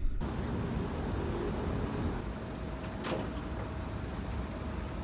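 Automatic car wash machinery starting up and running, heard from inside the car as a steady rushing noise that switches on abruptly. A faint steady tone joins about two seconds in, and there is a single click about three seconds in.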